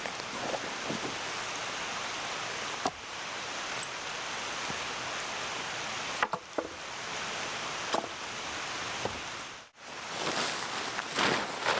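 Mountain stream flowing in a steady rush, with a few sharp knocks now and then. The sound drops out briefly about ten seconds in, then comes back with a busier scatter of knocks.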